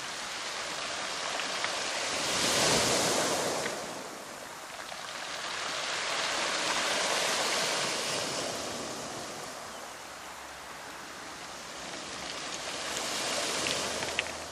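Ocean waves washing onto a shore, swelling and fading three times, the loudest surge about three seconds in.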